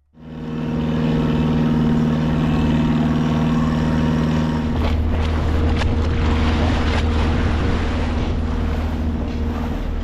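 Small boat's engine running steadily with wind and water noise. About halfway through, one of its low tones drops out and the sound changes, with a few short knocks.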